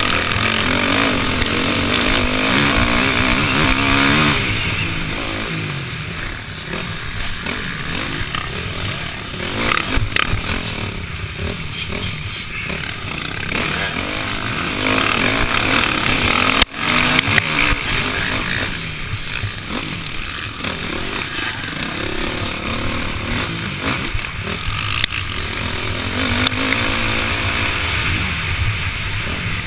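KTM 505 four-stroke single-cylinder dirt bike engine under racing load, its pitch rising and falling as the throttle opens and closes through gear changes. About halfway through there is a sharp click and a brief dip in the engine sound.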